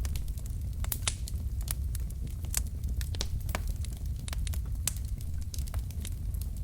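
Wood fire burning in a fireplace: logs crackling with irregular sharp pops, over a steady low rumble of the flames.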